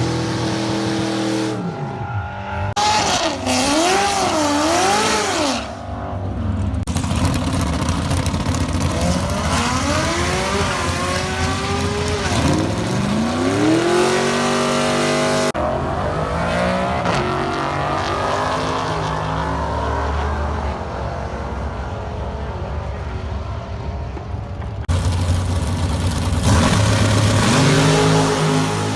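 Drag-racing engines revving and accelerating hard in a series of short clips joined by abrupt cuts. Pitch wobbles up and down a few seconds in, then climbs in repeated rising sweeps as the engines pull through the gears.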